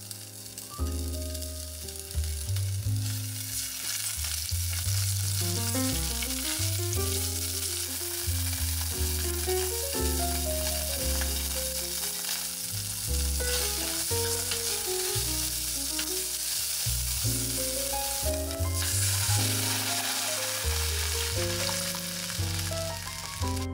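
Bacon, then asparagus, sizzling as they fry in olive oil in a pot, with some stirring. Background music plays along with it.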